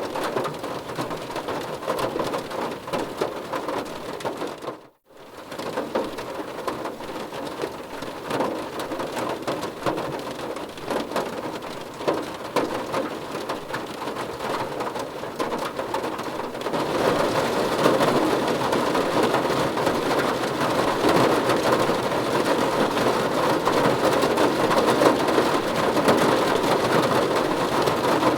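Rain falling on a car's roof and windows, heard from inside the car: a dense, steady patter of drops. It cuts out almost to silence for a moment about five seconds in, and grows louder and heavier about two-thirds of the way through.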